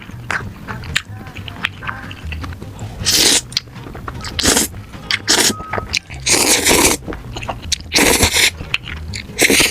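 Close-miked eating: a person biting and chewing food, with about six loud, noisy bites or mouthfuls in the second half.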